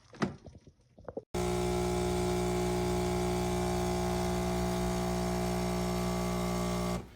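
A machine running with a steady, unchanging hum, starting abruptly about a second in after a few faint clicks and cutting off abruptly near the end.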